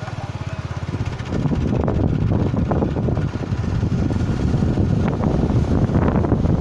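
Motorcycle running on the move, its engine pulsing evenly for about the first second, then mostly covered by wind rumbling on the microphone.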